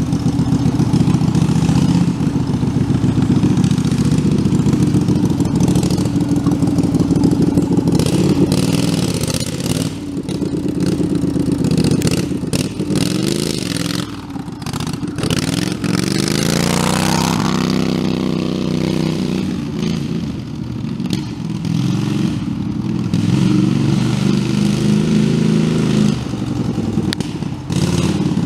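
Tractor engine running hard and revving up and down, its pitch falling and rising several times, with clattering and rattling over it.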